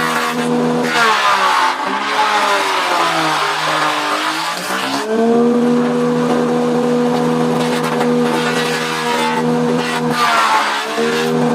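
Bandsaw ripping hardwood: the motor's steady hum drops in pitch as the blade bites and a rasping cut noise grows. The hum climbs back up about five seconds in and sags again near the end as the saw comes under load once more.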